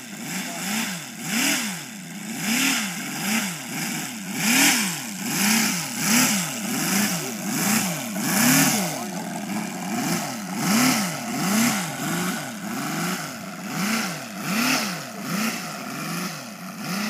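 Seven-cylinder O.S. radial engine of an RC Fairey Swordfish model running, its note rising and falling in pitch over and over, about one and a half times a second.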